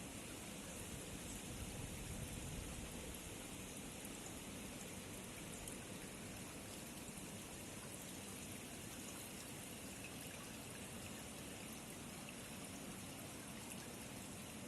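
Steady, even hiss of water with faint scattered pattering.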